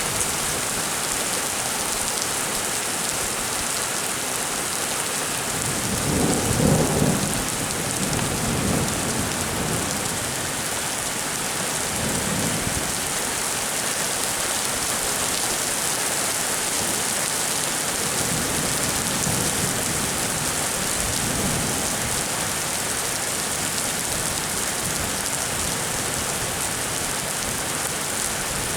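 Rain falling steadily in a thunderstorm, a constant hiss, with thunder rumbling about six seconds in and fainter rumbles later.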